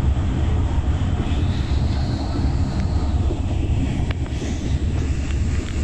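Passenger train running, heard from inside the carriage as a steady low rumble, with a couple of faint clicks about three and four seconds in.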